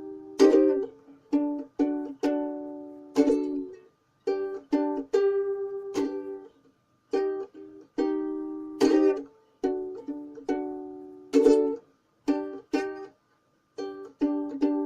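Ukulele strumming chords: sharp strokes each ringing out and fading, in phrases separated by short pauses.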